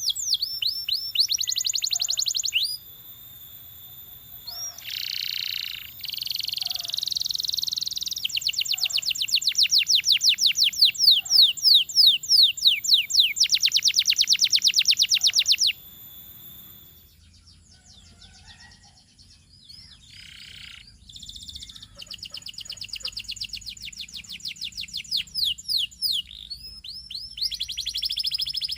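Canary singing in long rolling trills of rapidly repeated, fast pitch sweeps, one tour after another. The song falls away for several seconds past the middle, then starts again.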